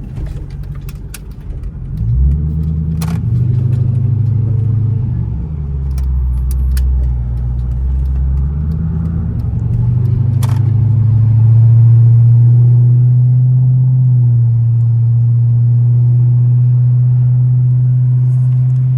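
Chrysler 300's Hemi V8 with a straight-piped exhaust accelerating hard from a stop, about two seconds in. Its pitch shifts through a few gear changes, then it holds a steady, loud drone at cruising speed.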